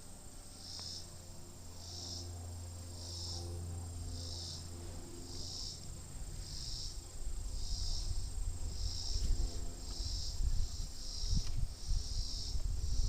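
Insects chirping in a steady, even rhythm, a bit more than one chirp a second, over a faint hum of bees from the open hive. From about halfway through, low rumbling bumps on the microphone grow louder than the chirping.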